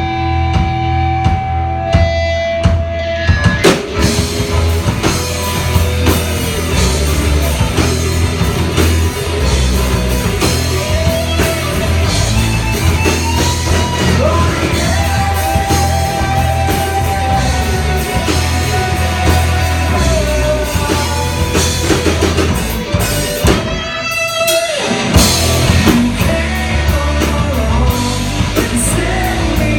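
Loud live rock band playing: electric guitar, bass and drum kit. A few sustained guitar notes open, the full band comes in about three and a half seconds in, and it briefly drops out near the end before crashing back in.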